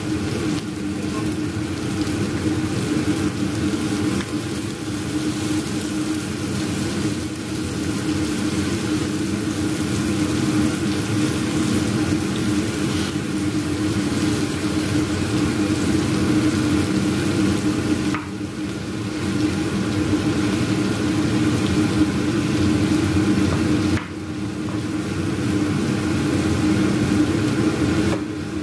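Corned beef and onions sizzling in a frying pan while a wooden spatula breaks up and stirs the meat, over the steady hum of a kitchen exhaust fan that is described as really noisy.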